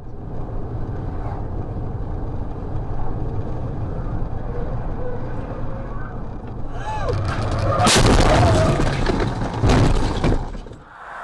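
Vehicle running on the road, then a loud crash about eight seconds in and a second loud impact about two seconds later: a traffic collision.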